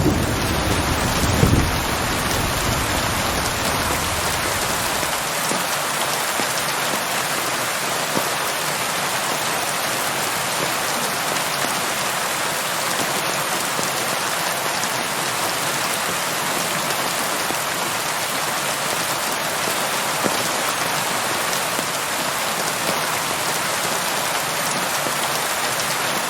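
Steady, heavy rain falling, an even dense hiss. A low thunder rumble dies away in the first few seconds.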